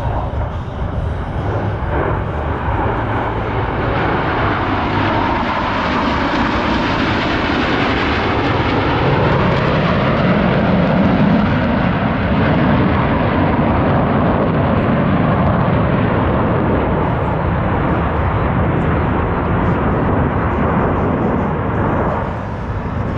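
Jet noise of Blue Angels F/A-18 Super Hornets flying past, a loud rumbling roar that builds to its loudest about ten to twelve seconds in and then slowly fades.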